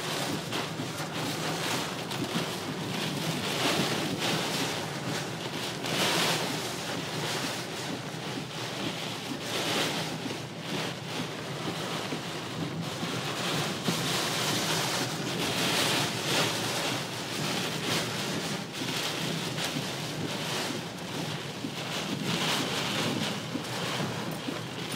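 Storm wind gusting with rain, the wind buffeting the microphone in swells every few seconds.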